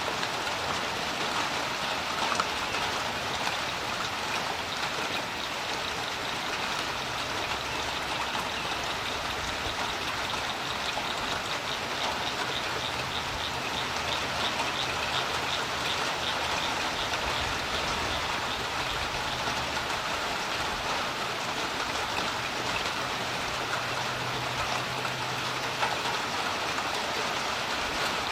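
Steady rain falling on a creek, a dense patter of drops on water and the dock. A faint low hum sits underneath through the middle stretch.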